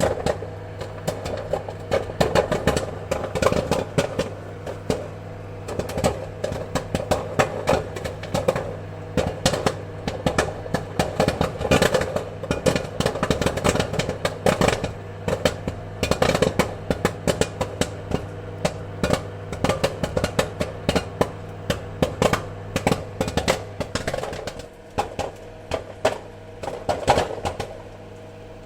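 Popcorn kernels popping in quick, irregular clusters of many pops a second over a steady low hum. The popping thins out briefly near the end and then picks up again.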